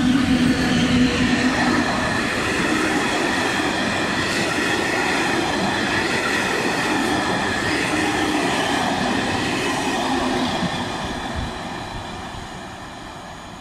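Locomotive-hauled passenger train passing at speed. It is loudest as the locomotive goes by at the start, then a steady rush of the coaches' wheels on the rails follows, fading as the train pulls away near the end.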